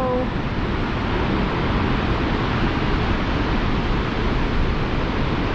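Steady rush of wind and road noise on the microphone of a moving motorcycle, a BMW R1200GS Adventure, with no distinct engine note standing out.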